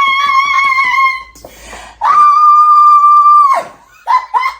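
A woman's high-pitched voice letting out two long excited squeals of delight: the first falls slightly and the second is held level.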